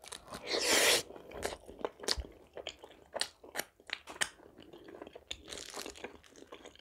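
Close-miked eating: a loud crunchy bite about half a second in, then chewing with many short, sharp mouth clicks and a second, softer crunch near the end.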